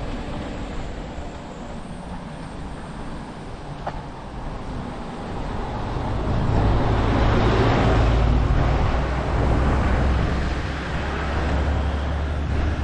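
Motor vehicle passing close by on the road, its engine hum and tyre noise swelling about six seconds in and peaking a couple of seconds later, with a second swell near the end.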